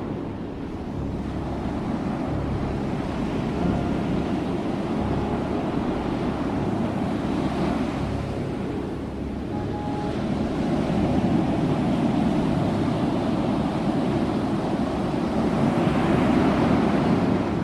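Ocean waves washing in as a steady rushing surf that swells and eases slowly, with louder surges about two thirds of the way through and near the end.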